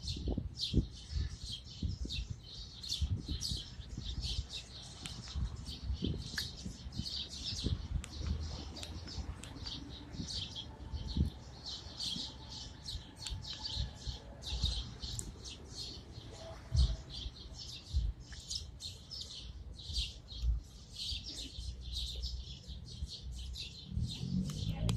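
A flock of small birds chirping loudly and without pause, many short overlapping calls at once, with irregular low thumps underneath.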